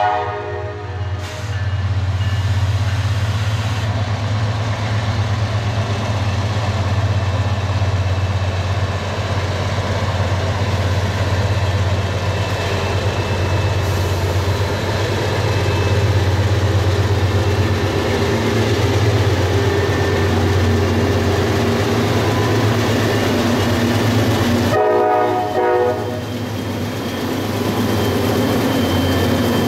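Norfolk Southern freight train led by a GE C44-9W diesel-electric locomotive approaching and rolling past, its diesel engine's deep steady rumble running throughout. The air horn finishes a blast about a second in and sounds once more briefly a few seconds before the end.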